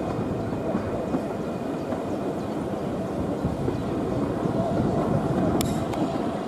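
Train running, a steady rumble with no clear beat, with one sharp click about five and a half seconds in.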